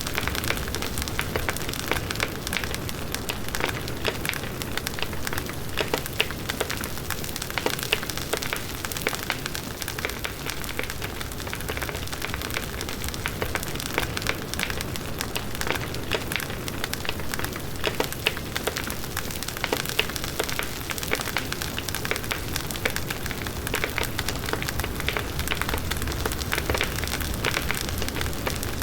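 Large wood bonfire burning steadily, its flames rushing and its burning wood crackling and popping at irregular intervals.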